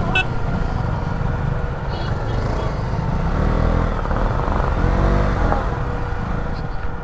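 Motorcycle engine running under way, a steady low rumble mixed with wind and road noise as picked up by the rider's camera.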